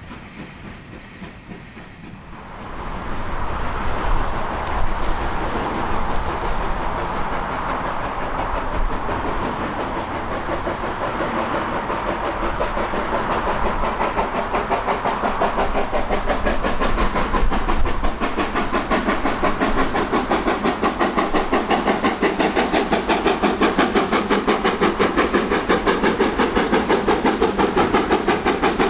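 A train coming past, growing louder about two and a half seconds in and building steadily, with a fast even rhythmic beat through the second half.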